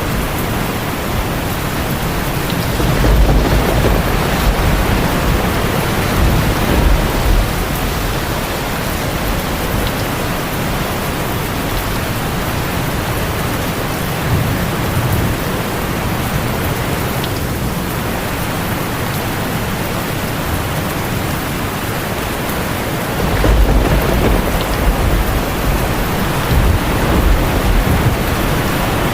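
Heavy rain falling steadily on a tin roof, with a low rolling rumble of thunder about three seconds in and another near the end.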